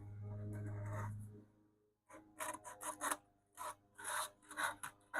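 Sandpaper rubbed back and forth by hand over a wooden radio cabinet's veneer edge, in quick strokes about two to three a second, starting about two seconds in. A low steady hum comes before the strokes.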